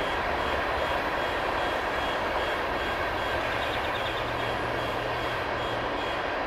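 Freight train of tank cars rolling through a grade crossing, a steady rumble and rattle of wheels on the rails. A crossing warning bell rings in quick, evenly repeated dings over it.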